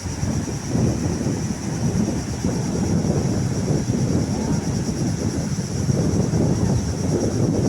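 Wind buffeting the microphone: a loud, gusty low rumble with a steady high hiss above it.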